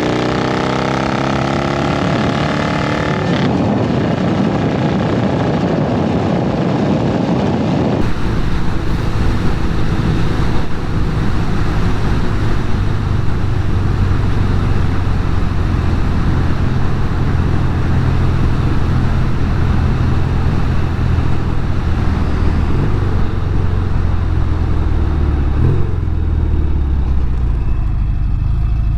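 Norton Commando 850 Mk2's parallel-twin engine running on the road: its pitch climbs over the first few seconds as the bike accelerates, then settles into a steady cruising note, with a brief rise near the end.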